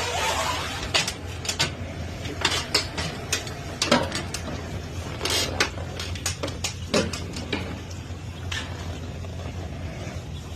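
Irregular metallic clicks and clanks, a dozen or so sharp knocks spread across the stretch, over a steady low hum.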